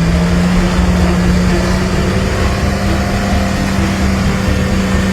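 Four-wheel-drive's engine running at steady revs that creep slowly upward, with a low rumble underneath.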